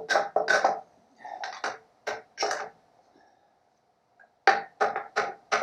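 A MIG welder laying short tack welds in steel: a series of brief crackling bursts with a steady hum, about a dozen in all, in two clusters with a quiet gap in the middle.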